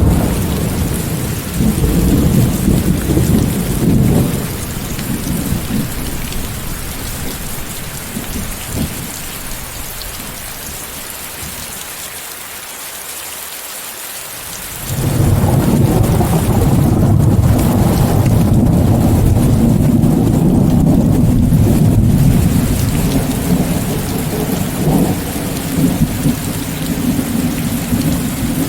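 Steady hiss of heavy rain mixed with white noise, with rolling thunder. A rumble at the start dies away, and about halfway through a loud, long rumble of thunder sets in suddenly and rolls on almost to the end.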